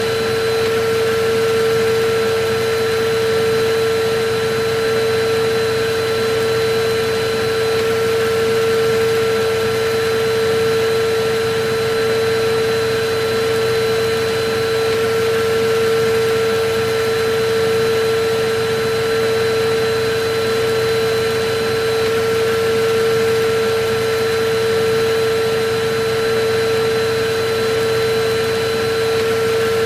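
Electric vacuum cleaner running steadily: a constant motor whine over the rush of air, with no change in speed and a slight, slow swelling and easing in loudness.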